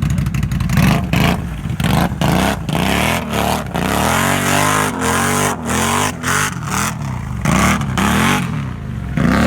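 Can-Am off-road vehicle's engine revving hard over and over, its pitch climbing and falling back about once a second.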